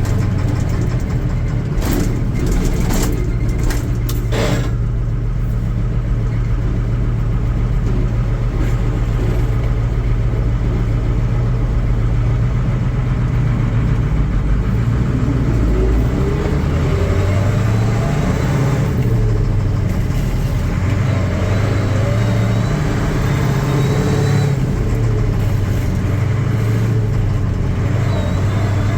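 Caterpillar 3208 non-turbo V8 diesel engine of a 1972 Ford L8000 dump truck running. It holds a steady pitch for about the first half, then repeatedly rises and falls in pitch as it revs up and down. A few sharp clicks come a couple of seconds in.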